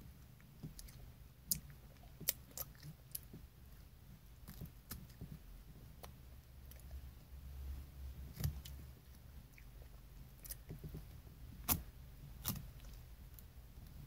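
A child chewing and nibbling thin edible paper, with scattered short, sharp mouth clicks and smacks over a faint low hum; the two loudest clicks come near the end.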